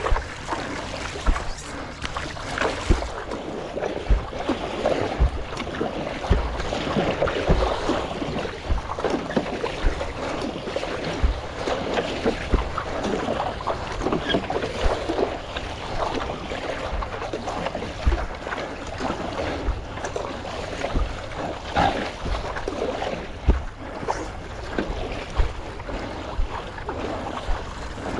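Water splashing and slapping against a stand-up paddleboard in choppy waves, with low knocks every second or two, and wind buffeting the microphone.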